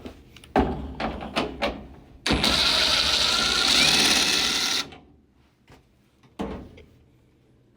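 Power drill running for about two and a half seconds, backing a screw out of a dryer panel, with handling clicks and knocks before it and a single knock near the end.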